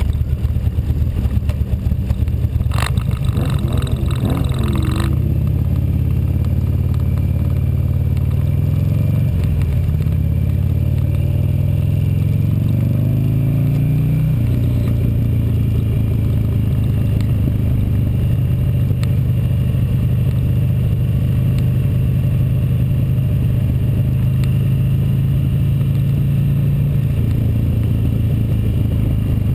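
Motorcycle engine heard from the rider's own bike, pulling away and accelerating: the pitch rises through a gear and drops suddenly about fourteen seconds in as it shifts up, then holds a steady note. A short rough, noisy stretch comes about three to five seconds in.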